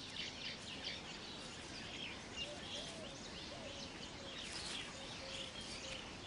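Weaver birds chattering at their nesting colony: a steady stream of many short, high chirps and twitters from several birds, with a few lower, arching calls among them.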